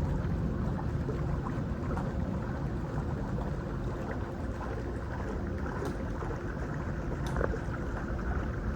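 Steady low rumble of running machinery with a faint steady hum, and a couple of faint clicks about six and seven and a half seconds in.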